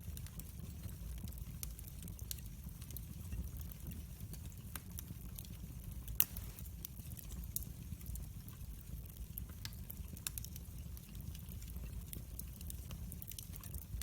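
Wood fire burning in a fireplace: a steady low rumble of flames with scattered crackles and small pops, one louder pop about six seconds in.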